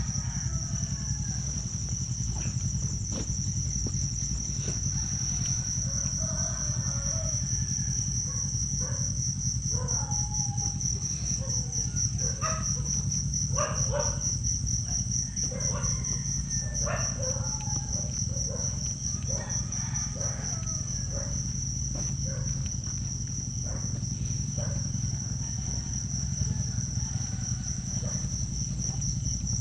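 Insects trilling: a continuous, finely pulsing high-pitched chirr that holds steady, over a steady low rumble, with faint short scattered sounds in the middle.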